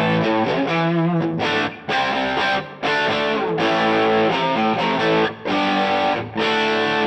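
Electric guitar played through a DVII tube guitar amplifier with a distorted tone: chords and riffs in short phrases, cut off by brief stops several times.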